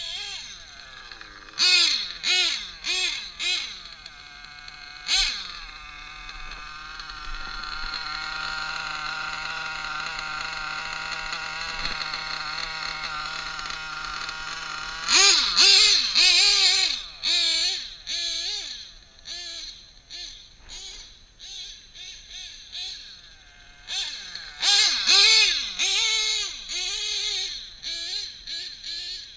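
Nitro RC truggy engine, a drag-modified Novarossi .28, revving in short throttle blips with its pitch swooping up and down. It is held at a steady high pitch for about ten seconds in the middle, then revs in bursts again.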